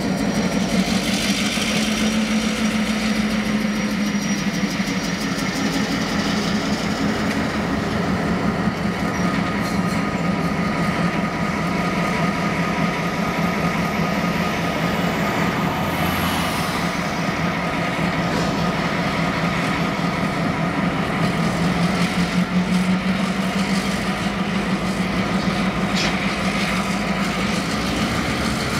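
Diesel-electric freight locomotives working while shunting a rail yard: a loud, steady, deep engine drone throughout, with a faint high whine that fades out about halfway through.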